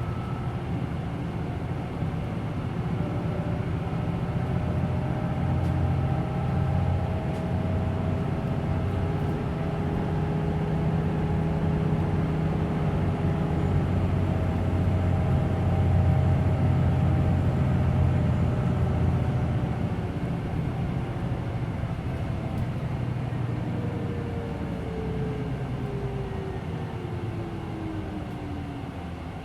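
Hino Blue Ribbon City Hybrid bus under way, heard from inside the cabin: the engine is run hard, making a steady deep drone that swells through the middle. Near the end a whine slides down in pitch as the bus slows and the loudness eases.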